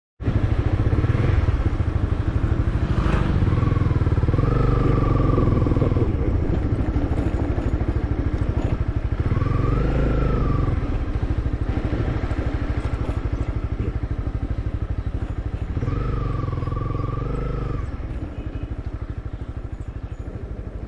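Motorcycle riding along, its engine running with a steady rumble under road and wind noise, easing off near the end. Three short wavering tones cut in over it along the way.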